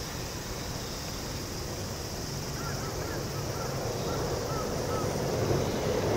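Wind noise on the microphone over a low rumble that grows slowly louder: a freight train approaching the bridge. A bird gives a run of short chirps in the second half.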